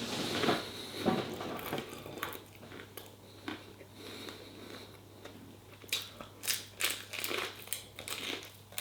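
A person chewing a mouthful of chicken pad thai noodles, with irregular wet mouth clicks and smacks that thin out in the middle and pick up again later on.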